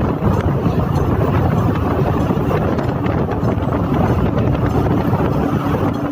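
Loud, steady rumbling din of heavy industrial machinery in a forging shop; a steady low hum joins about four seconds in.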